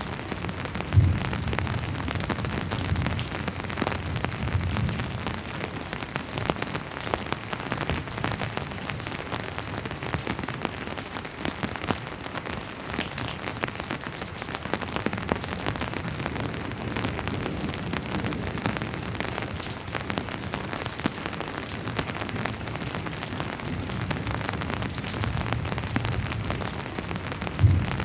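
Steady rainfall, an even hiss with many small drop ticks. Two brief low thumps stand out, about a second in and near the end.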